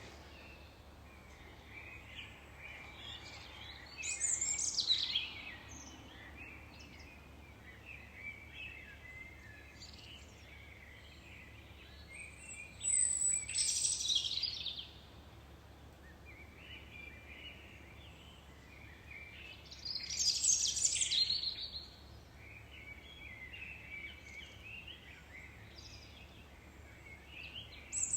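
Wild birdsong: a loud, high song phrase that sweeps downward, repeated about every eight seconds, with softer twittering between.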